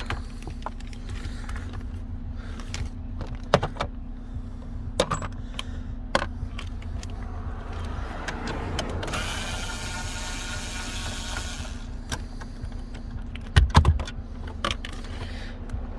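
Small cordless electric screwdriver running for about three seconds a little past the middle, backing out dashboard trim screws. Around it are scattered clicks and knocks of plastic trim and tools being handled, with a louder knock near the end, over a steady low hum.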